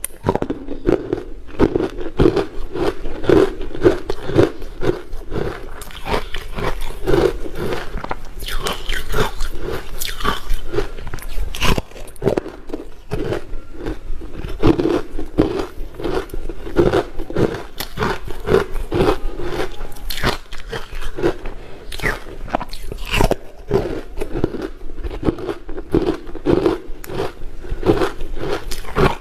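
Close-miked biting and chewing of ice: a continuous run of sharp, crackling crunches as chunks of ice are bitten and broken up between the teeth.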